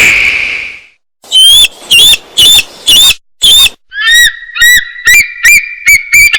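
Loon calling: a long call tails off and fades in the first second, then comes a run of loud, short, up-slurred notes about two a second. From about four seconds in, a second, lower series of notes joins them.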